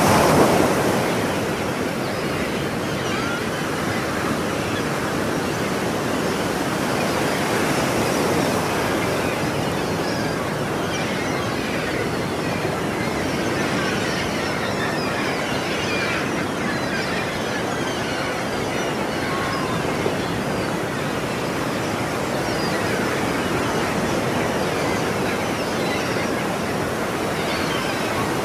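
Ocean surf: waves breaking and washing onto a shore as a steady, rushing noise, the loudest break right at the start, then gentler swells.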